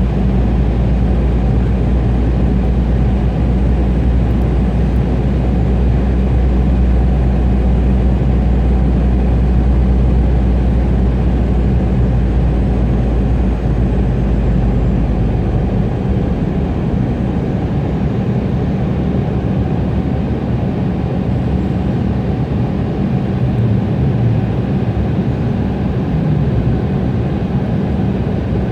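Cabin noise of an Embraer E175 airliner in flight: its GE CF34 turbofan engines and rushing airflow make a loud, steady noise with a low hum. About halfway through, the deepest rumble drops away.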